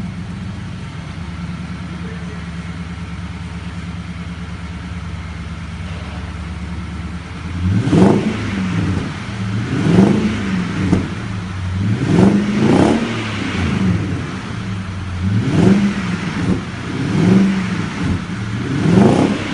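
Nissan Patrol Y62's 5.6-litre V8 through a Borla-style sport exhaust, idling steadily for about seven seconds. It is then revved in about six short throttle blips, each rising in pitch and dropping back to idle.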